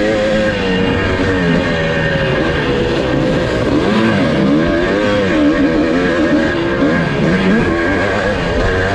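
1982 Husqvarna 430's two-stroke single-cylinder engine racing over a motocross track, its pitch rising and falling again and again as the throttle is opened and shut through the bumps and corners.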